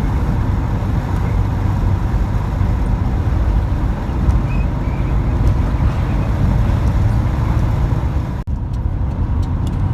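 Volkswagen bus's newly installed engine running under way, with steady low road and engine rumble as the van drives on at speed. The sound cuts out for an instant about eight and a half seconds in.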